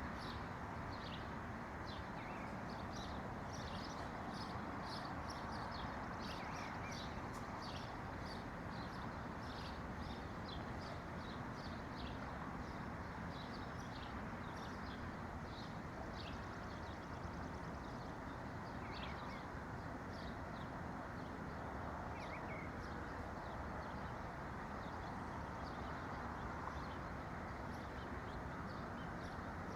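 Small birds chirping, many short high notes repeated quickly throughout, over a steady low background rush.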